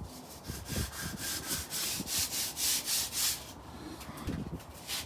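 Repeated rubbing strokes by hand, several a second, easing off about three and a half seconds in.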